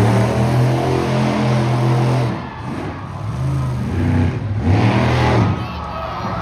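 Monster truck engine running loud, throttle rising and falling: it eases off about two and a half seconds in and revs up again near the end.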